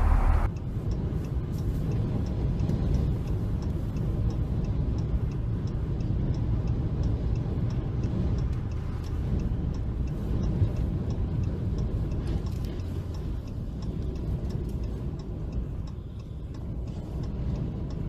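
A car driving, with a steady low road-and-engine rumble and a faint, regular light ticking a few times a second.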